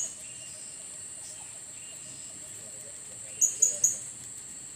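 A blue-crowned hanging parrot (serindit) gives a quick run of four sharp, high chirps about three and a half seconds in, over a steady high-pitched insect drone.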